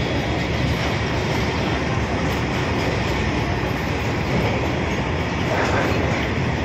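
Goods train's hopper wagons rolling past close by: the steady noise of steel wheels running on the rails.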